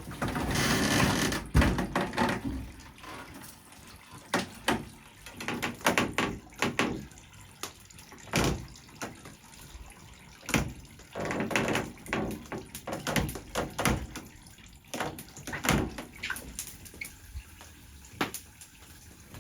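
Liquid splashing, with many short knocks and clatter scattered through it; the splashing is loudest in the first two seconds and again about halfway through.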